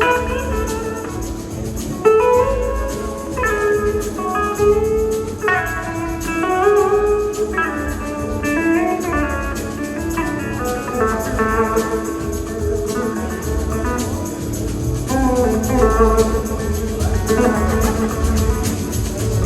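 Live blues-rock band playing an instrumental passage, a lead electric guitar line of sustained and gliding notes over the band's steady backing.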